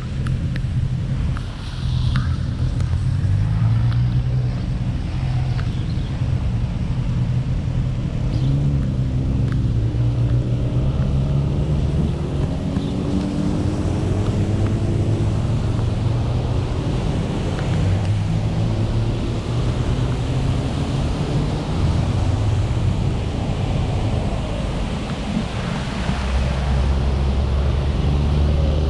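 Car driving along the road: steady engine and tyre noise, with the engine's pitch rising and falling as it speeds up and slows down. The low hum grows heavier near the end.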